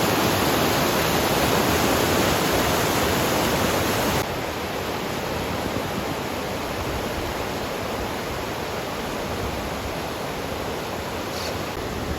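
Rushing water of a river swollen by heavy rain, a steady rushing noise that drops abruptly to a quieter level about four seconds in.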